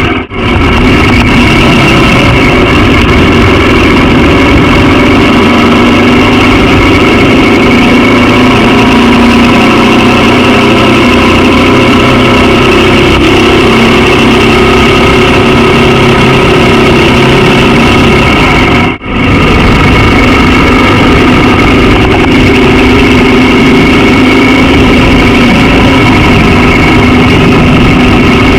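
Honda XR650L's air-cooled single-cylinder four-stroke engine running at a steady speed while riding, very loud on the microphone, broken by two brief dropouts about a quarter second in and about 19 seconds in.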